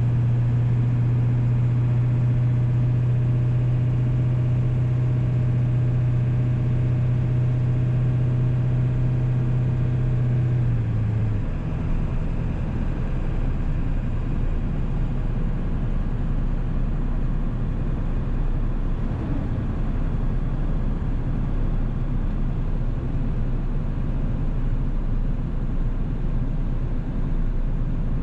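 1997 Ford 7.3 Powerstroke turbo-diesel V8 running while driving, a steady low drone with a strong hum. About eleven seconds in the hum drops away and the sound turns to a rougher, lower rumble.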